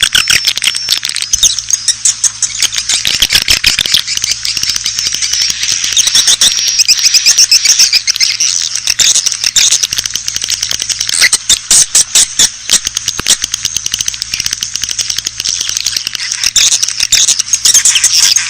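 Swiftlets twittering in a dense chorus of rapid high chirps and clicks, without a break. It is a swiftlet lure call of the kind played to draw the birds to nest houses.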